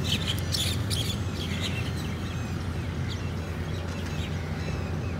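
Small birds chirping in short, scattered high calls over a steady low hum.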